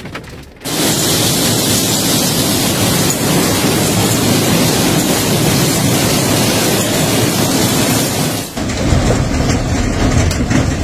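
Hail pelting down in a dense, steady clatter of noise. About eight and a half seconds in it cuts abruptly to a deeper, rumbling storm noise.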